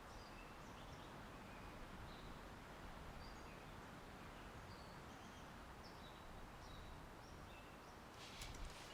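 Faint steady outdoor ambience with birds chirping briefly and often, high and short. A few computer keyboard keystrokes click near the end.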